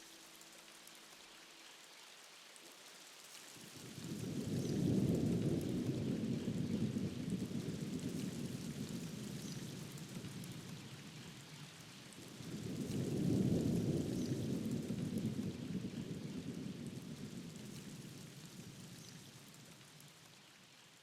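Steady rain falling, with two low rolls of thunder, one about four seconds in and one about thirteen seconds in, each swelling quickly and then fading away slowly.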